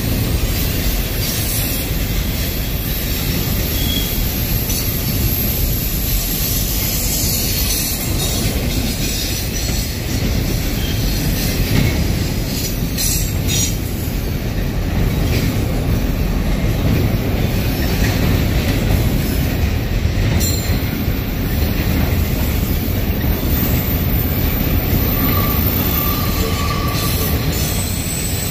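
Union Pacific double-stack intermodal freight cars rolling past: a steady, loud rumble of steel wheels on rail, with thin high wheel squeal now and then.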